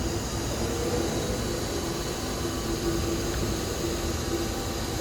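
Drive motor and gearing of a Matsumoto Kikai MT-3A-2.4 welding positioner running steadily under test: an even mechanical hum with a steady whine and hiss.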